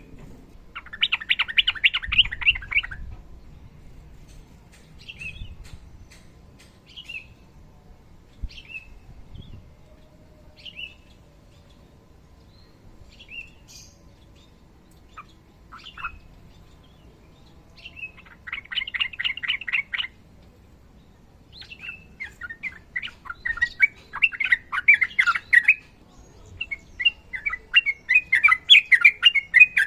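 Yellow-vented bulbul (trucukan) singing in several bursts of long, rapid chattering phrases, with short single call notes in the pauses between them. The song grows denser and louder towards the end.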